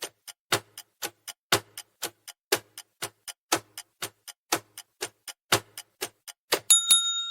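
Countdown-timer sound effect ticking about four times a second in an even tick-tock. Near the end a bell dings and rings on, marking time up.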